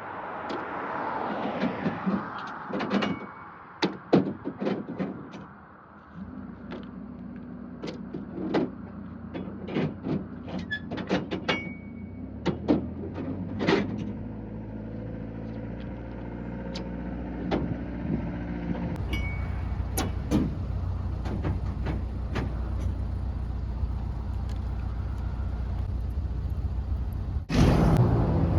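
Scattered clanks and thunks of truck unloading, over a truck engine that starts a low steady drone a few seconds in and grows louder later on.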